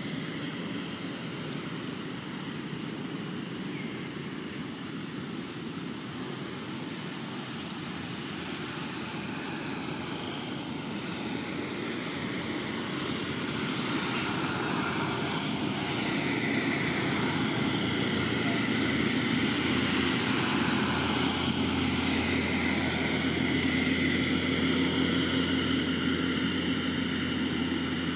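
A steady engine drone that grows gradually louder through the middle of the stretch and then holds.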